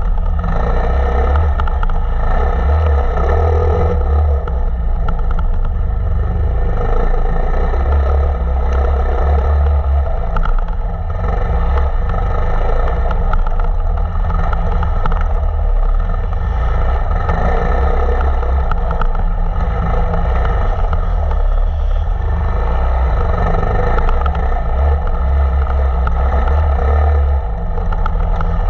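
KTM 525 EXC enduro motorcycle's single-cylinder four-stroke engine running continuously while the bike is ridden off-road, loud and fairly steady with small rises and falls in throttle.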